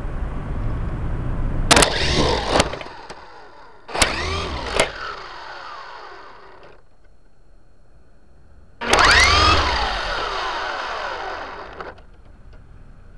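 A toy helicopter's motor and rotor spinning up in three sudden short bursts, each winding down with a falling whine, the last and loudest taking about three seconds to die away.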